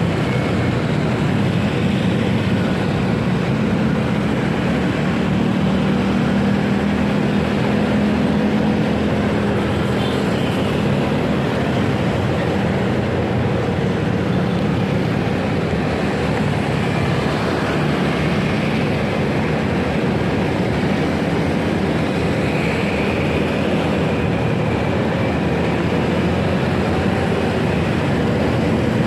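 Steady, unbroken vehicle noise of a motorcycle being ridden through traffic, with a low engine hum underneath.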